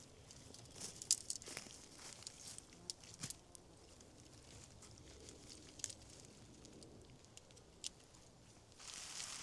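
Faint rustling and crackling with scattered sharp clicks, and a denser rustle near the end.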